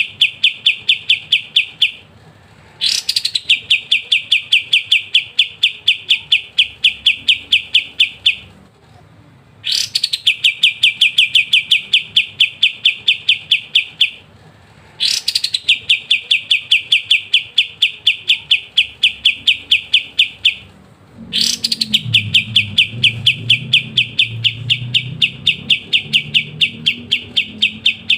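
A kapas tembak sings its long rattling 'ngebren' song: fast, even trains of about five sharp notes a second, each train opening with a quick rising note. The trains last five to six seconds, with brief pauses between them.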